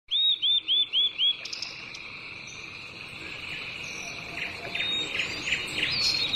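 Birds chirping over a steady, high insect trill. A quick run of five loud chirps opens it, with softer chirps later on.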